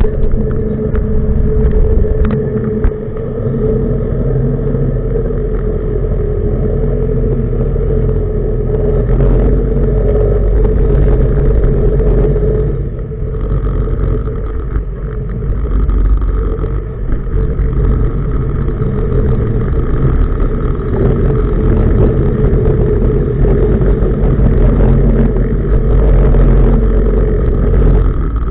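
Tugboat's diesel engine running steadily under way, a loud low rumble with a steady hum, dipping slightly in level a couple of times midway.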